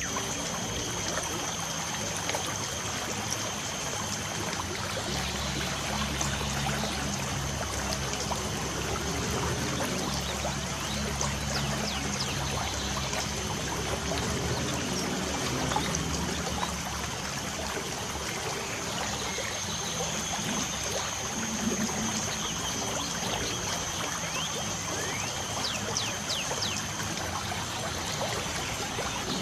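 Light rain falling as a steady trickling hiss, with a few short bird chirps near the end.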